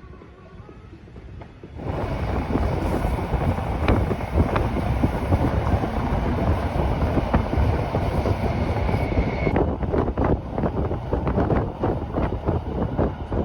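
Rhaetian Railway regional train running on the Bernina line: a loud, steady rail rumble with many rattles and clicks of wheels over the track, plus wind on the microphone. It starts suddenly about two seconds in, after a quieter moment. A faint steady high whine runs through the first part, and the clicks grow more distinct near the end.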